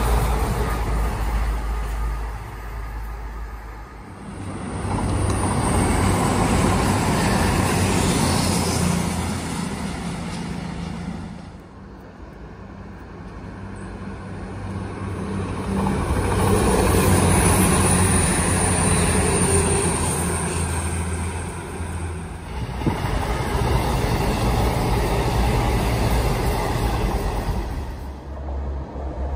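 Diesel passenger trains passing one after another, engine noise and wheels on the rails swelling and fading as each goes by. First comes the receding tail of an HST, then a Class 222 Meridian diesel multiple unit approaching and passing, with a thin high whine as it goes by.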